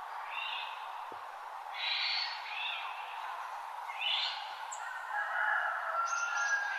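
Forest birds calling at dawn: short bursts of chirps roughly every two seconds, with longer held notes near the end, over a steady background hiss.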